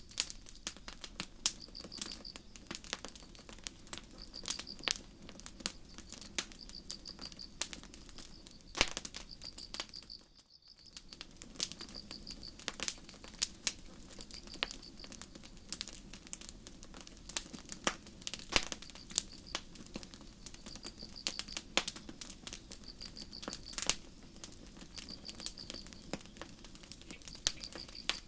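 Campfire crackling with sharp, irregular pops, over crickets chirping in short high-pitched trills repeated every second or so. The sound briefly drops out about ten seconds in.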